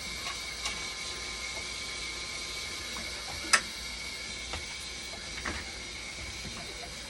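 Dialysis machine running under test: a steady high-pitched tone with a few light mechanical clicks and one sharp click about three and a half seconds in.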